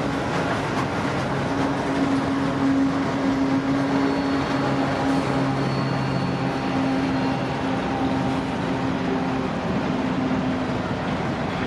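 Freight train rolling by with its mid-train GE AC4400CW diesel locomotive passing close, a steady low engine hum over the continuous rumble of wheels on rail.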